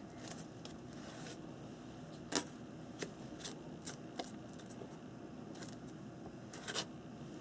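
A few faint, scattered clicks and taps from handling a plastic texture plate and paintbrush while adding texture paint.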